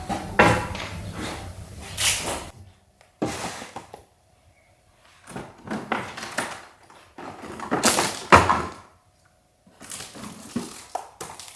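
Irregular handling noises: knocks, thumps and rustles coming in short clusters, with two brief quiet gaps; the loudest thumps come about two seconds in and about eight seconds in.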